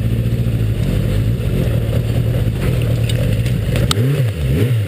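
Motorcycle engine running steadily at a constant speed, then its revs rise and fall twice in quick succession near the end.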